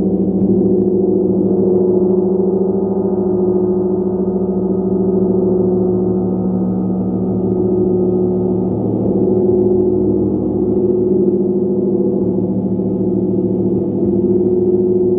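A large gong being played continuously, its tones sustained into a dense, steady wash with slow swells in loudness.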